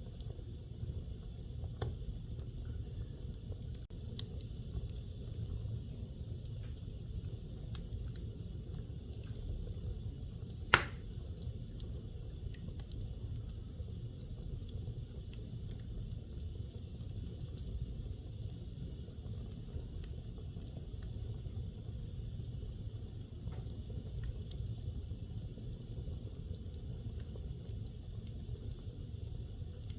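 Wood fire burning in a fireplace: faint scattered crackles over a steady low rumble, with one loud sharp pop about eleven seconds in.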